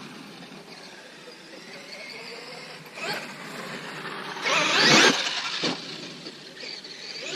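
Traxxas X-Maxx 6S electric RC monster truck's brushless motor whining in short bursts of throttle: a brief one about three seconds in, then a loud rising-and-falling rev about five seconds in, and a short blip just after.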